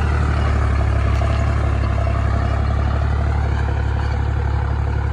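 Deutz-Fahr Agrolux 50 tractor's diesel engine running steadily with a deep drone.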